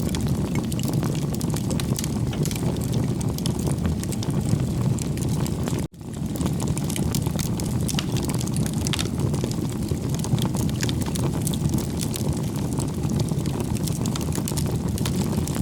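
Wood fire burning: a steady low rumble of flames with frequent small crackles and pops. The sound cuts out for an instant about six seconds in.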